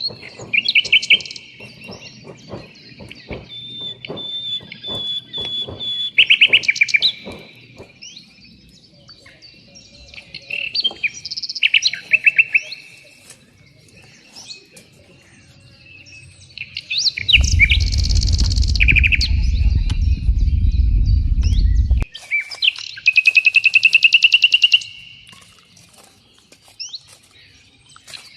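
Songbirds singing: repeated fast chirping trills and whistles, a steady trill about 23 to 25 seconds in. A loud low rumble lasts about five seconds past the middle, and soft clicks sound in the first few seconds.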